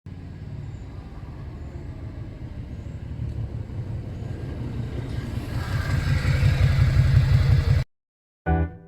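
Motorcycle engine running with a low, pulsing rumble that grows louder from about five seconds in, then cuts off abruptly near the end.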